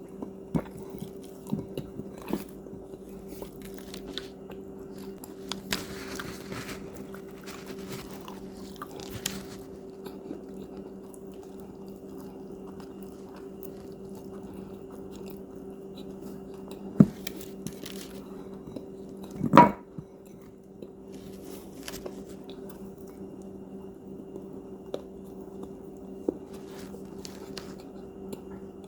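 Crunchy cookies being bitten and chewed close up: scattered crisp crunches and clicks over a steady low hum, with a louder crack about 17 seconds in and a louder crunch at about 19 to 20 seconds.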